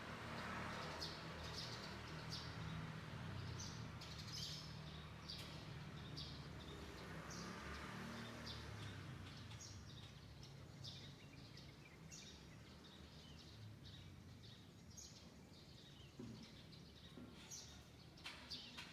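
Small birds chirping in short, scattered notes, faint over a low steady background rumble of neighbourhood ambience.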